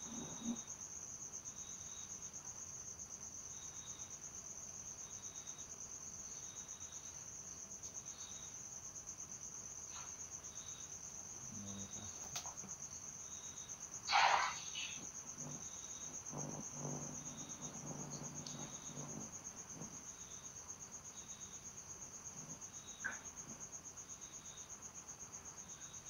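Insects chirring steadily in a high-pitched, finely pulsing drone, with a second, lower chirp repeating about once a second. A brief louder noise comes about halfway through, and a few faint low knocks follow it.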